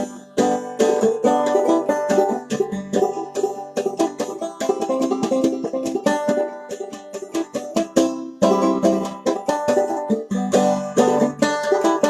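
Clawhammer banjo playing an old-time tune instrumentally, a rapid stream of plucked and brushed notes, with a brief pause about eight seconds in.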